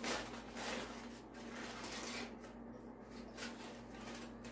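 Wrapping being peeled open from a freshly roasted food, an irregular rustling and rubbing over a faint steady hum.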